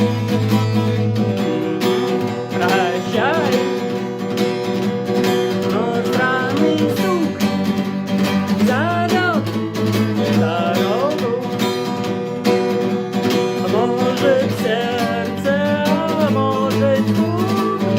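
Acoustic guitar played with a pick: a steady strummed rhythm, with a melody line above it that glides up and down in pitch.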